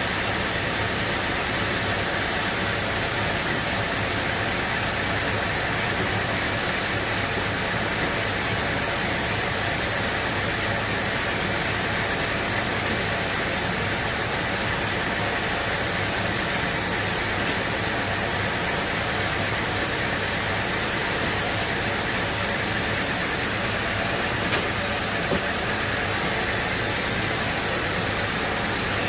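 Sawmill machinery running steadily: an even, unchanging mechanical noise with a faint steady hum, and two light ticks near the end.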